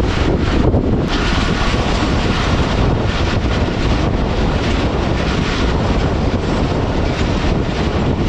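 Wind buffeting the microphone over the steady running noise of a passenger train under way.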